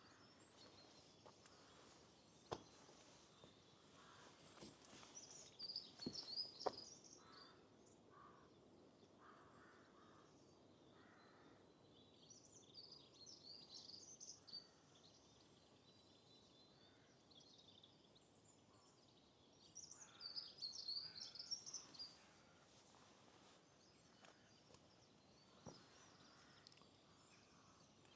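Faint songbirds singing in repeated bursts of high, twittering song, with some lower notes between bouts, over a soft steady outdoor background. A few sharp clicks cut in, the loudest about a quarter of the way in.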